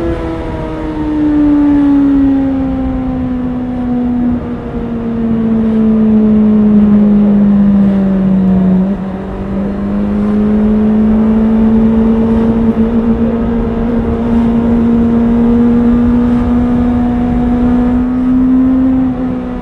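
Honda CBR650R's inline-four engine running steadily. Its pitch sinks slowly for about the first nine seconds, then climbs gently again.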